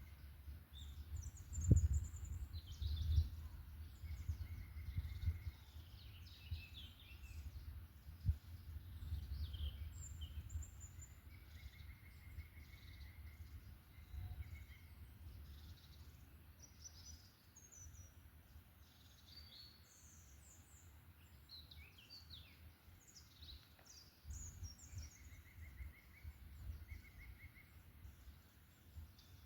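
Several birds singing and calling in a forest: many short high chirps and a few brief level trills over a low rumble. A few low thumps come about two, three and eight seconds in.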